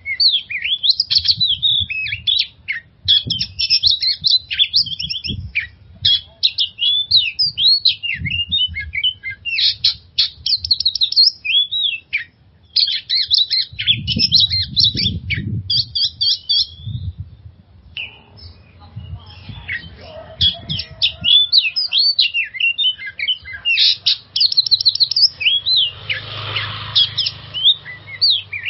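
Oriental magpie-robin singing a long, rapidly varied run of whistles and chirps, with a short break a little past halfway.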